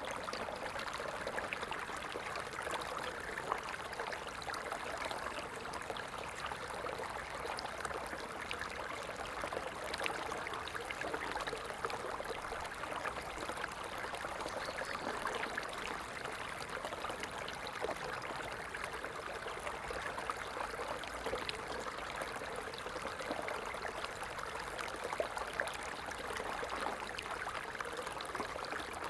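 Stream water flowing and trickling steadily, a continuous even rush of water with fine splashing ticks.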